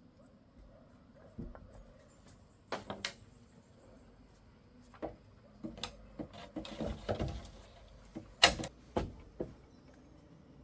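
Irregular knocks and clatter, as of objects being handled, with a brief scraping rustle about seven seconds in; the loudest knock comes near the end.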